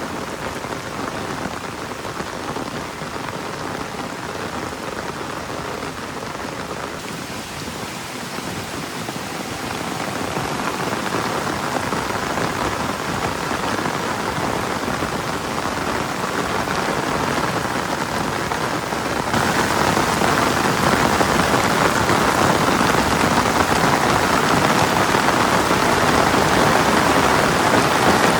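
Rain falling steadily as an even hiss of drops, with no voices over it. It grows louder through the middle and turns noticeably heavier about two-thirds of the way in.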